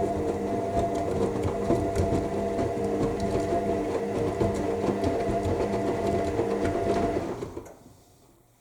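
AEG 7000 Series washing machine turning its drum in the main wash: a steady motor hum with the wet load tumbling and knocking. About seven seconds in the drum winds down and stops, a pause between tumbling phases.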